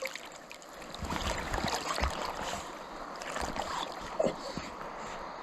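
River water rushing over rocks, swelling about a second in, with scattered knocks and splashes.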